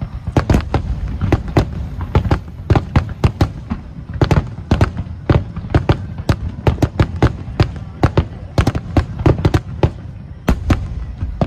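Fireworks display: a dense barrage of shell bursts and crackling reports, several a second, over a continuous rumble of echoing booms.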